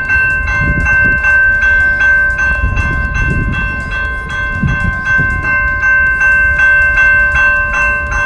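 Railroad level-crossing bell ringing steadily, about two to three strikes a second, over a low rumble.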